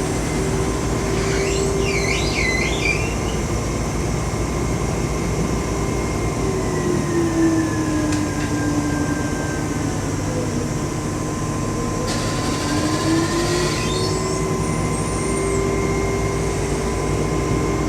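Kobelco CKE2500G crawler crane's diesel engine and hydraulic pumps running steadily with a whine. The pitch sags for several seconds about halfway through, then comes back up as the hydraulics work the counterweight rams. Short, high squeaks are heard about two seconds in and again near the end.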